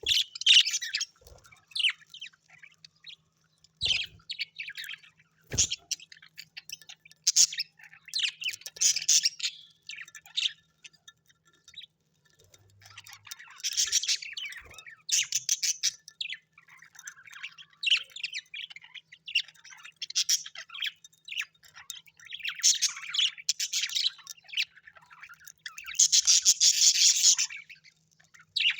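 Small birds chirping and giving harsh, buzzy squawks in repeated bursts, with short pauses between them.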